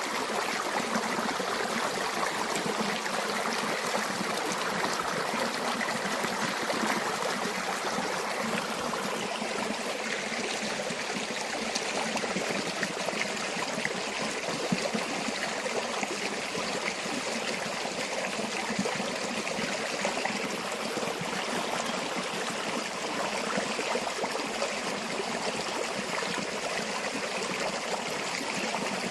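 River water flowing and babbling steadily over stones, a constant rushing with fine trickling detail.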